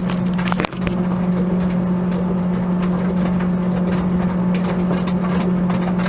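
Steady electric motor hum of a running laundry machine, with two sharp clicks in the first second.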